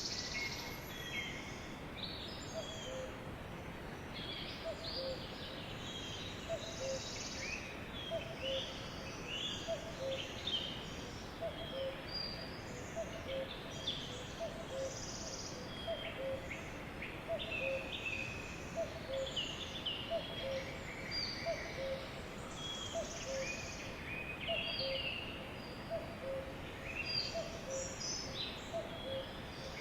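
Sparrows chirping busily, many short overlapping chirps and quick slurred notes, over a steady background hiss. A low two-note pip repeats about every second and a half underneath.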